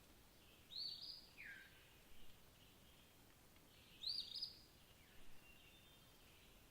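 Wild birds calling in a quiet setting: a high chirp about a second in, followed by a short falling note, then a louder cluster of chirps about four seconds in, with fainter calls between.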